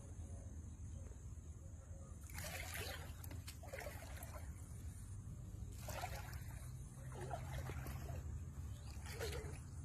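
Water splashing and trickling in about five short bursts, over a steady low rumble.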